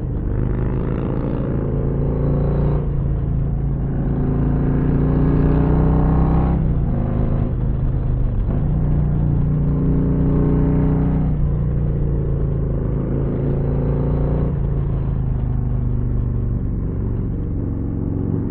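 2022 Harley-Davidson Street Glide ST's Milwaukee-Eight 117 V-twin running on the road, pulling up through the gears: the pitch climbs and then drops at each shift, about four times in the first half. In the second half it settles at a steadier, lower pitch.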